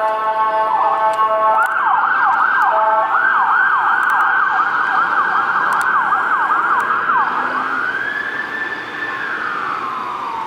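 Emergency vehicle siren on a fast yelp, a rapid falling sweep repeating about three times a second. A steady horn blast sounds with it for the first second or so. Near the end the siren holds one high note, then winds steadily down in pitch.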